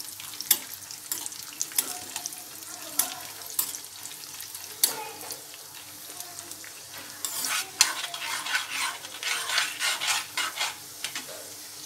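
Cashews frying in hot ghee in a kadai, sizzling, while a steel ladle stirs them and knocks and scrapes against the pan in sharp clicks. The stirring gets busier and denser from about seven seconds in.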